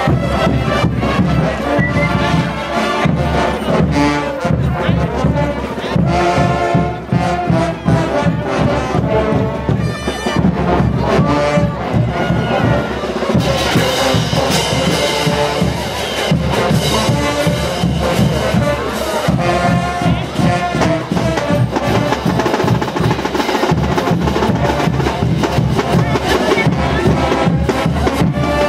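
Brass band playing diablada music: trumpets and trombones carry the tune over a steady beat of drums and cymbals.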